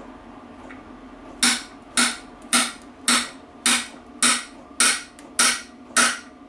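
Steel hammer striking to drive a bearing home into the warmed gearbox casing of a BSA B25 Starfire, about ten even blows at roughly two a second, starting after a second and a half, each with a short metallic ring.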